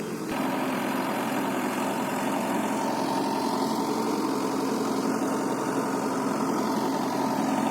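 Tractor diesel engine running steadily while ploughing a field.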